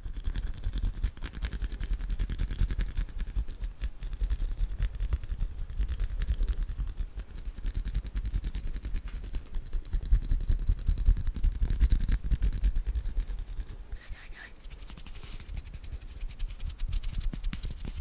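ASMR hand sounds: bare hands rubbing, tapping and fluttering right against a sensitive microphone, a dense run of rapid soft strokes with a deep rumble underneath. About fourteen seconds in, a brighter brushing rustle stands out for a moment.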